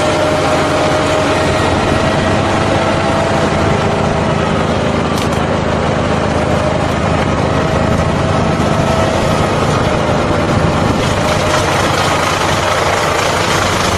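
Engine of a heavy farm machine running steadily under way, with a faint whine that wavers slightly in pitch.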